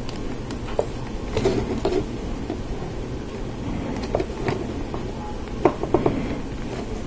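Lego Technic plastic parts and pneumatic hoses being handled and fitted: irregular small clicks and taps, with a few sharper clicks near the end, over a steady low hum.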